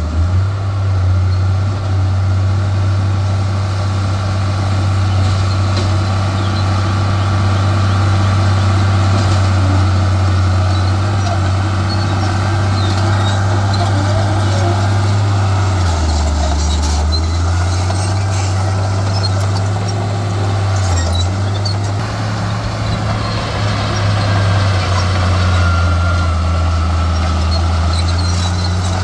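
Heavy diesel engine of earthmoving machinery running steadily with a deep drone. Its note drops under load for about a second around the middle and dips again briefly a few seconds later. Faint high squeaks and clicks sound over it.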